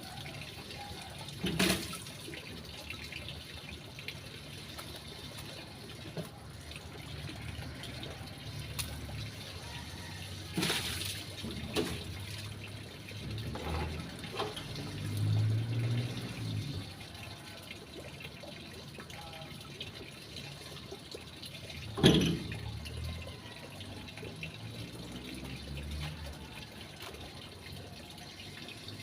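Water running and splashing, with a few sharp knocks, the loudest about two-thirds of the way through.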